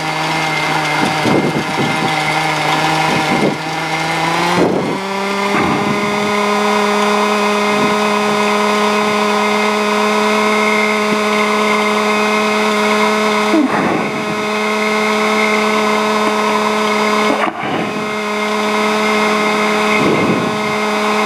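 Cessna 150's piston engine running, heard in the cockpit as a steady multi-tone drone; its pitch steps up about five seconds in as power is added, then holds. A few brief clicks are heard along the way.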